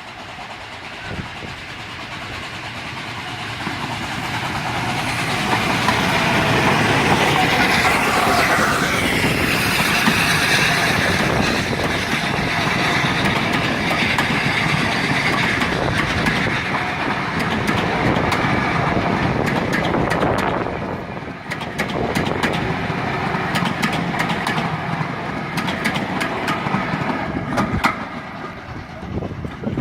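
Steam train approaching and passing close by, growing louder over the first several seconds, then the carriages rolling past with rapid clicking of wheels over the rail joints.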